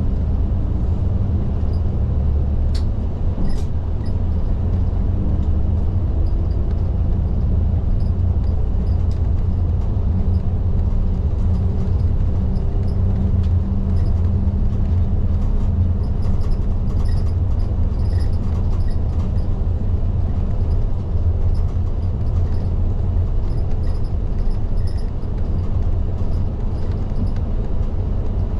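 Isuzu Erga city bus under way, heard from inside the cabin: a steady low engine drone and road rumble, the engine pitch shifting a little. A faint light ticking comes in during the second half.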